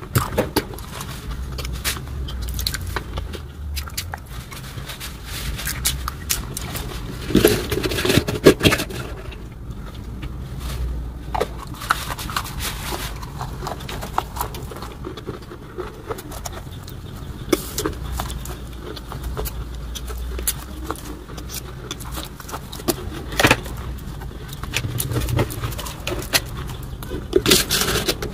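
Close-miked chewing of a mouthful of white chalk paste: a run of wet mouth clicks and soft crunches, densest a few seconds in. Near the end a plastic spoon scrapes the plastic bowl.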